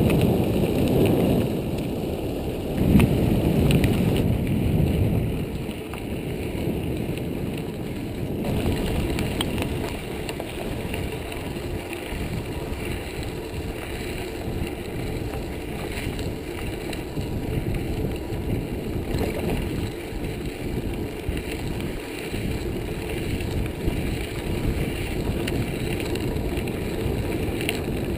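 Mountain bike riding over an off-road trail: steady rumble of tyres on rough ground with wind noise on the camera microphone, louder in the first few seconds and then settling to an even level.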